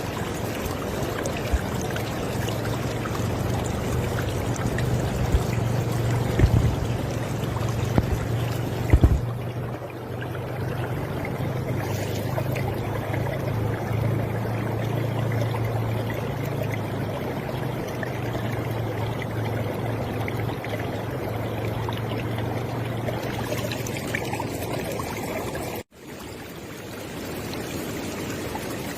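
River water flowing steadily, a continuous rushing with a low rumble underneath and a few louder splashes. Near the end it cuts out for an instant and comes back slightly quieter.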